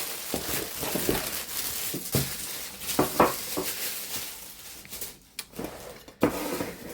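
Cardboard box and packaging being opened and handled: rustling with scattered light knocks and clicks, and a sharper clatter near the end.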